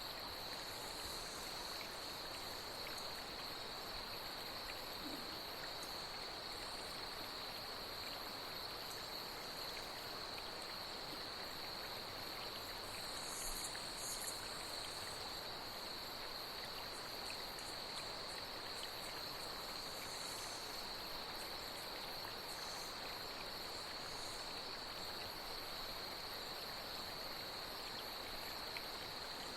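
Night insects trilling steadily over a constant wash of flowing water. A few brief higher-pitched calls come in about halfway through.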